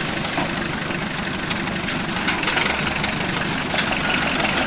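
A vehicle engine running steadily at low revs, with a few faint knocks over it.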